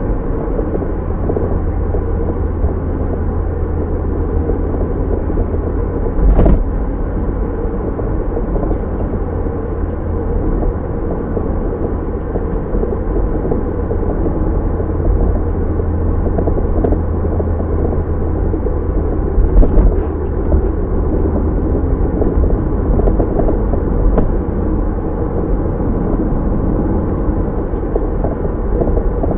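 Steady, muffled road and engine noise of a moving car picked up by a dashcam, with a sharp knock about six seconds in and a smaller one around twenty seconds.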